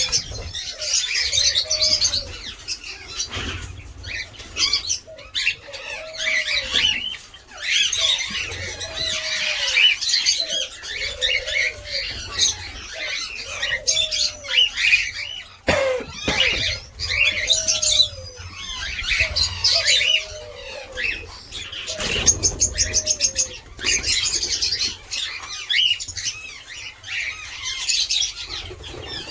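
A colony aviary of cockatiels and other small parrots chirping and squawking. Under it a low arched call repeats about every second and a half through most of the clip, with now and then a flutter of wings.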